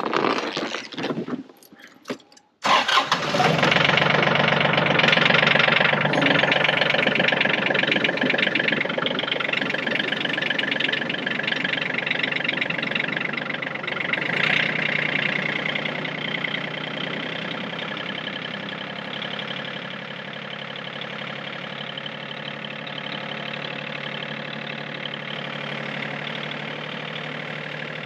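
Yanmar compact tractor's diesel engine starting about two and a half seconds in, a cold start on a near-zero day. It then keeps running, easing gradually in loudness as it settles toward idle.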